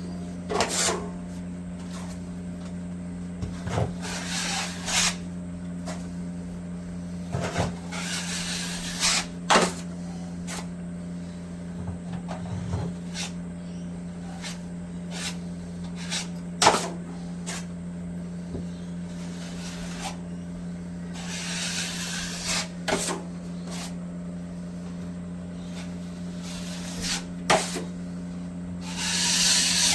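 Hand plastering tools at work filling gaps: a scattered string of sharp knocks and taps with a few longer scrapes, over a steady low hum.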